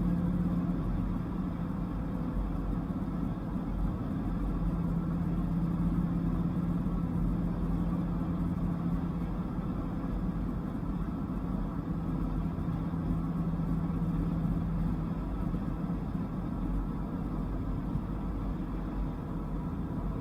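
Dodge Viper's V10 engine running steadily at a cruise, over a low rumble of road noise. The engine drone eases a little after about fifteen seconds.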